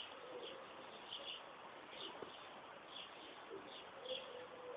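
Small birds chirping faintly in the background, short chirps coming several times a second, with a brief low steady note near the end.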